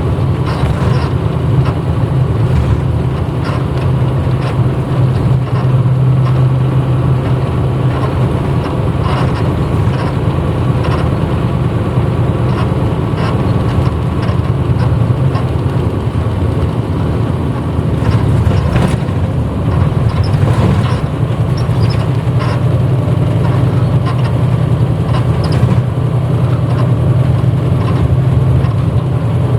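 A 1994 Hino Blue Ribbon U-HT2MPAA city bus underway, heard from inside the cabin: the diesel engine runs with a steady low hum, mixed with road noise and scattered short rattles and knocks.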